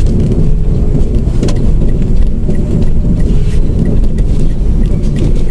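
Small manual hatchback heard from inside the cabin while driving on a rough road: steady engine and road rumble with scattered knocks and rattles from the bumps. A light, even ticking of about three a second joins about halfway through.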